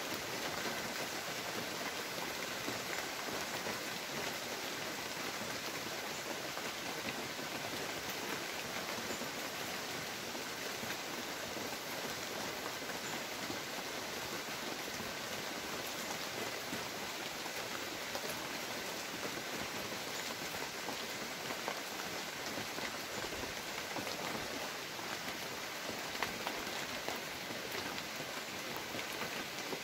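Steady rain falling on broad banana leaves, many separate drops striking.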